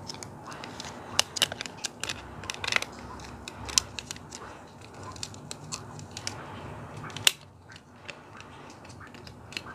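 Clear plastic action-figure stand pieces clicking and crackling as they are handled and pressed together, with a run of sharp clicks in the first few seconds and a single sharp snap about seven seconds in.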